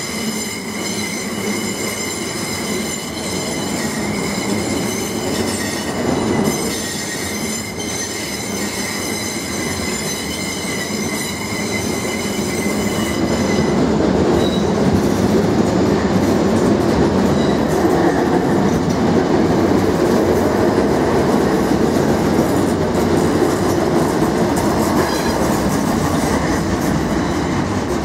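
Train wheels squealing, a high steady ringing for the first half, then a louder running noise of wheels on rail as a South Western Railway Class 455 electric train passes close by.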